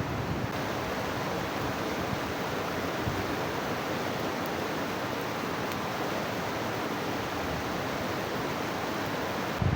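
Steady rush of a fast mountain river, an even, unbroken water noise.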